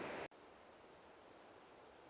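A steady rushing noise, like wind or running water, cuts off suddenly about a quarter of a second in. After it comes a faint, even background hiss with no bird calls.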